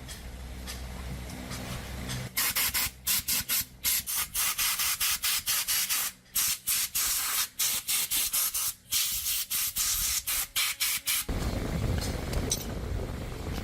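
Pressurised spray hissing in many short bursts, one after another with brief gaps, for about nine seconds. Before the bursts start and after they stop there is a steady low hum.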